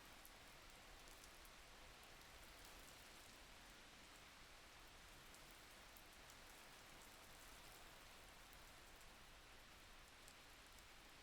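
Faint, steady rain: an even hiss with the light patter of many small drops.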